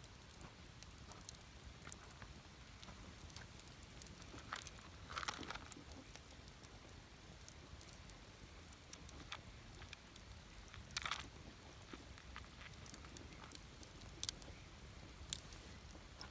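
Wood campfire crackling with scattered small pops and snaps, a few louder ones about five and eleven seconds in, over a faint low rumble.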